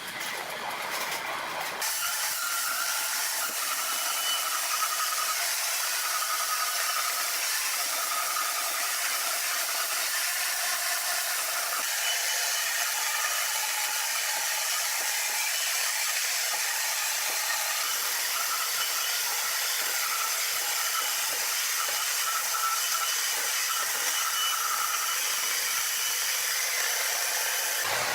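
Sawmill machinery running: a steady mechanical noise with a wavering high whine.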